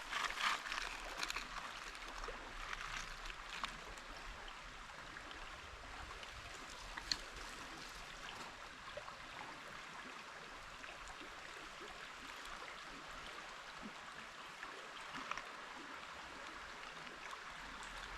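Stream water running steadily. There are a few faint clicks and rustles in the first second or two, and one sharp click about seven seconds in.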